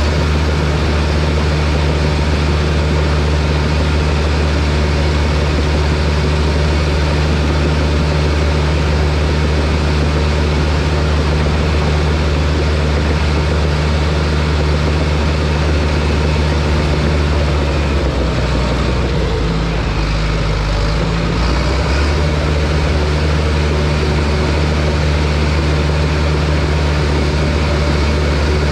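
Heavy diesel engine of logging equipment running steadily. About two-thirds of the way through, its pitch drops and wavers for a few seconds, then returns to the same steady note.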